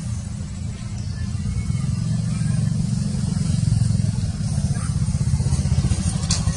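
A steady low rumble that grows louder about two seconds in, with a few faint high ticks near the end.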